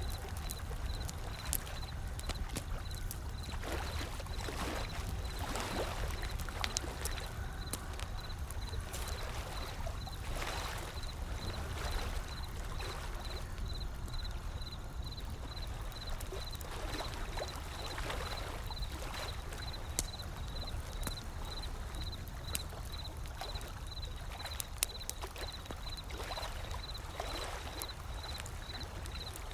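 Gentle ocean waves washing in slow swells every several seconds over a steady low rumble, with sparse sharp crackles and pops from a wood fire.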